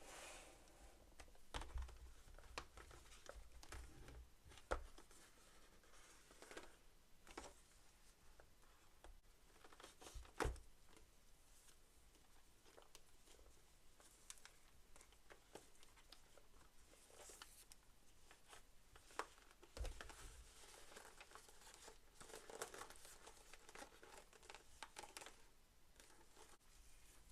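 Faint crinkling and tearing of toy packaging being handled and opened, with scattered light clicks and knocks, several of them sharper.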